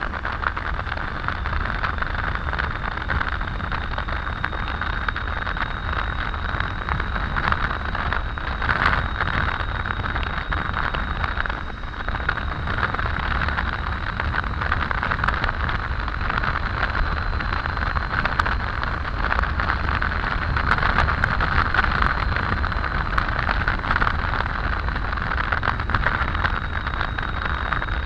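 Steady rush of wind and road noise from a Triumph Tiger 800 motorcycle riding at speed, with a low rumble underneath and a faint, steady high whine.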